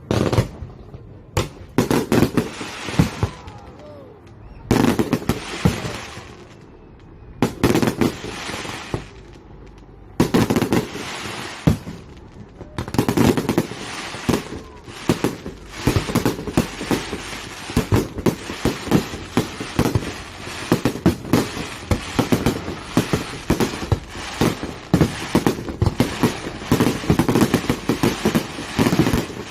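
Fireworks display: aerial shells bursting in loud bangs a few seconds apart, each trailing off. About halfway through they give way to a dense rapid barrage of bangs and crackles.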